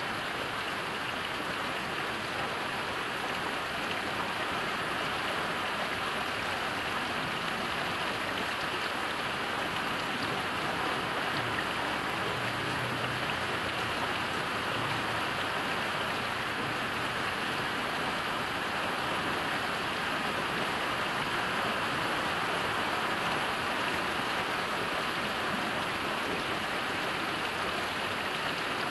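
Steady heavy rain, an even hiss of falling rain with no breaks.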